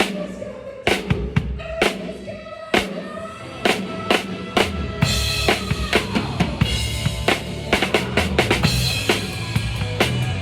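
Live band music driven by a drum kit, with kick and snare hits under sustained pitched instruments. About five seconds in, the playing grows denser, with cymbals added and the hits coming faster.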